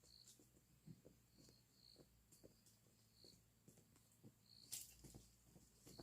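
Near silence with faint, short, high chirps repeating about once or twice a second, scattered soft ticks, and one sharper click near the end.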